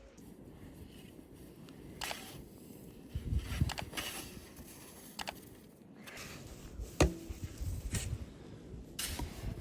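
Irregular knocks and scrapes, with one sharp click about seven seconds in.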